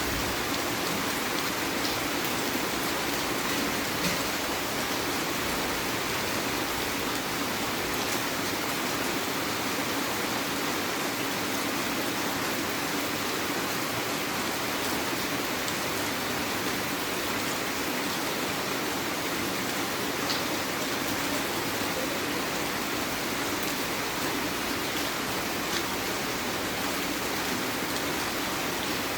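Heavy rain falling steadily: an even, constant hiss of rain, with a few sharper drop impacts standing out now and then.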